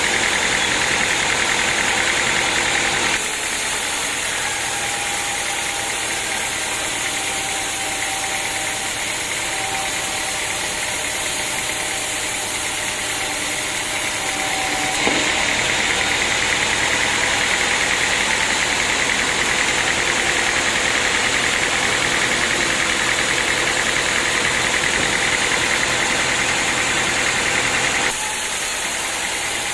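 Sawmill machinery running steadily: engine and saw noise, with no pauses. It shifts abruptly to a quieter, lower-pitched running about three seconds in, back to the louder, harsher sound about fifteen seconds in, and back to the quieter sound near the end.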